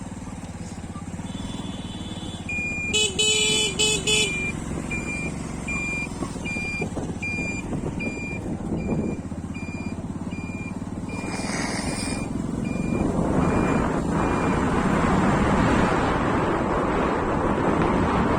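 Vehicle horn sounding a few short blasts about three seconds in, over a low rumble of traffic, while a thin high beep repeats almost twice a second. From about two-thirds of the way through, a loud rushing noise builds and stays.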